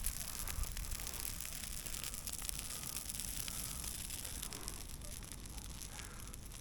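Large bonfire of rain-wet fir branches burning: a steady hiss with many small crackles and pops through it.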